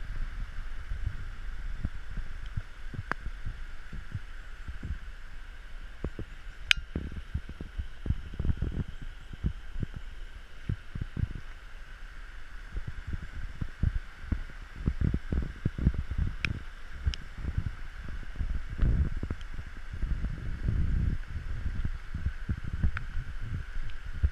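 Steady hiss of falling rain, with irregular low thumps of wind buffeting the microphone and a few sharp ticks.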